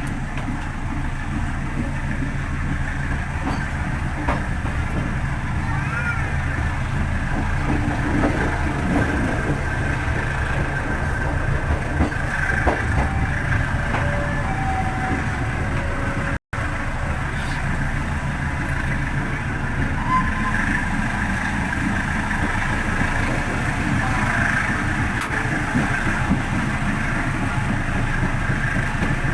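Steady rumble of a passenger train coach in motion, heard from inside, with the run of the wheels on the rails. The sound drops out for a moment about halfway through.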